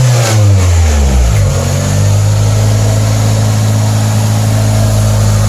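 Toyota Corolla four-cylinder engine revved by hand: its pitch falls away in the first second or so, then it runs at a steady speed, held up to push air out of the freshly refilled cooling system after a radiator replacement.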